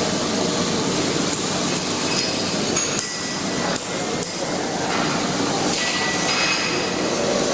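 Metal being struck with a hammer, with clinks and short ringing tones over a steady noise.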